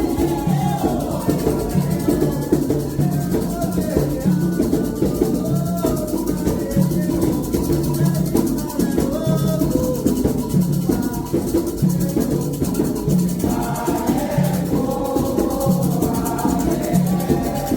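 Candomblé ritual music: atabaque hand drums and rattles keep a steady, dense rhythm under voices singing, and the singing grows fuller near the end.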